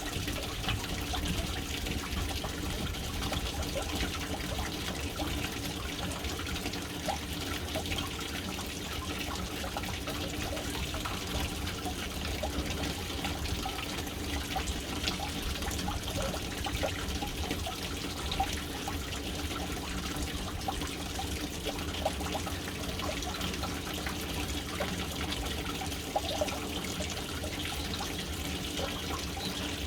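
Water falling steadily into a household water storage tank, a continuous splashing rush with a low rumble underneath.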